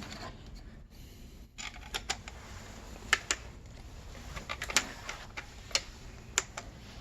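Small, sharp, irregular clicks and taps of PC mounting hardware (screws and brackets) being handled and sorted, starting about two seconds in, with the loudest clicks about three and five seconds in.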